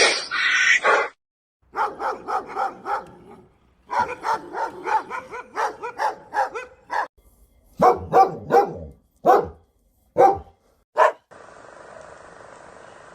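Dog barking and yipping in quick runs of short, sharp calls, then a few spaced single barks, giving way near the end to a steady hiss.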